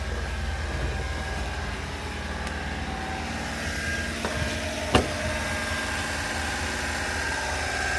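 Honda Acty mini truck's engine idling with a steady low pulsing rumble, and a single sharp knock about five seconds in.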